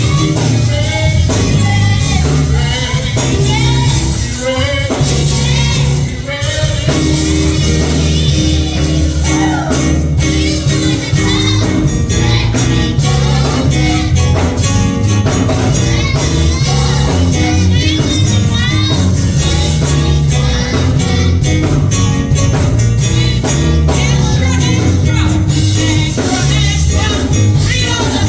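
Gospel music played live with singing over a steady bass line, with tambourine in the mix.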